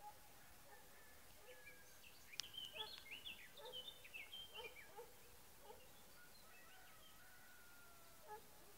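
Faint songbird singing: a run of short whistled notes and chirps lasting about three seconds, with one sharp click near its start, then a few scattered softer notes.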